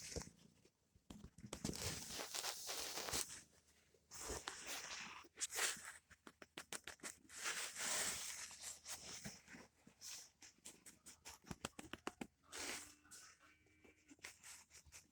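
Close rustling and scratching from a hand petting a kitten, in uneven bursts with runs of quick clicks.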